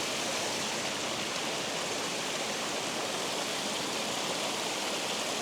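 Water rushing steadily over a spillway: an even, unbroken rush.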